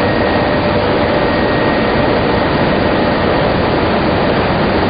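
Industrial machinery of a tobacco lamina flash-drying line running: a loud, steady rush of air and motor noise with a faint high whine held throughout.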